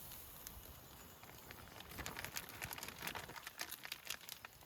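Irregular crackling and popping of meat grilling, fat spitting on the grill, growing denser about halfway through.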